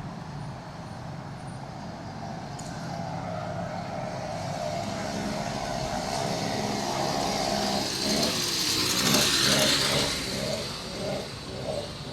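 A motor vehicle passing on a city street, growing louder to a peak about nine seconds in and then fading, over steady traffic noise; near the end a pulsing sound repeats about twice a second.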